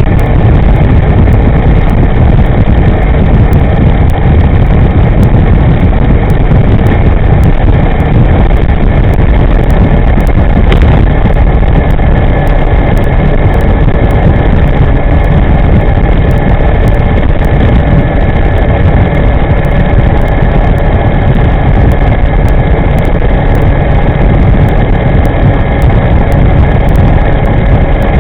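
Wind rushing over the microphone of an e-moving electric scooter ridden at speed: a loud, dense, steady rumble with a faint steady whine on top.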